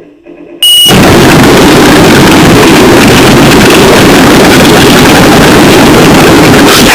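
Harsh noise music: after a quiet opening moment, a wall of heavily distorted, saturated noise cuts in suddenly under a second in and holds at full, unvarying loudness.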